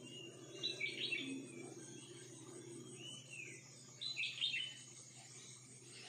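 A songbird calling: a down-slurred whistled note followed by a quick burst of chirps, repeated twice about three seconds apart.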